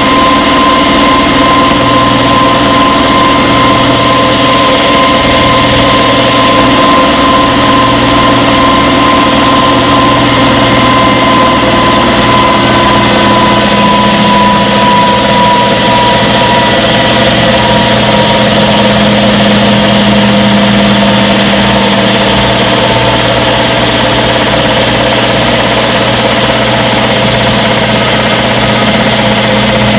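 Front-load washing machine running with a loud, steady mechanical hum. A high motor whine sinks slightly in pitch and fades out past the middle, while a lower hum comes in partway through.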